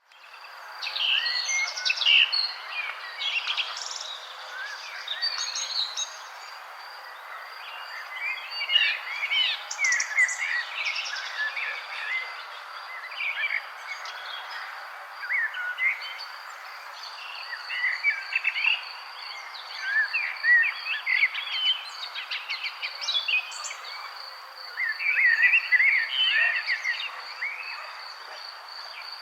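Several songbirds chirping and singing in short, overlapping phrases over a steady, high, pulsing trill and a soft background hiss.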